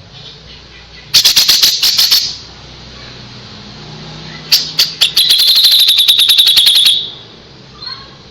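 Kapas tembak songbird giving its rapid rattling 'tembakan' calls: a short burst of fast clicking about a second in, then a longer machine-gun-like trill of about a dozen pulses a second from about four and a half to seven seconds.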